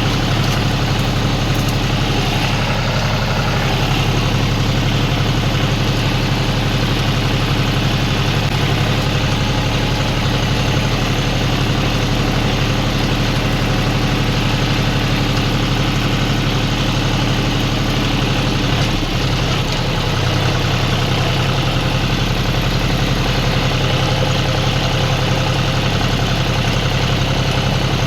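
Tractor diesel engine running steadily, with a brief slight dip about two-thirds of the way through.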